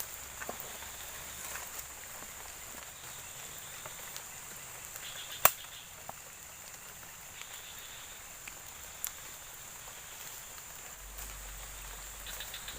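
Outdoor ambience: a steady high-pitched insect drone with a few short chirps, and a sharp click about five and a half seconds in, with a smaller one near nine seconds.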